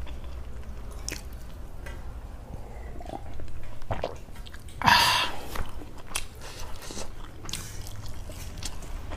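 Close-miked chewing of a mouthful of jeera rice with curry, with soft clicky mouth sounds; a louder, short noisy sound comes about five seconds in.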